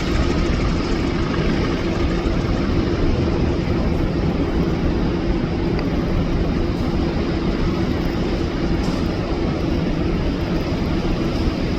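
Helicopter running steadily: a constant loud drone of engine and rotor with a low steady hum and no rise or fall.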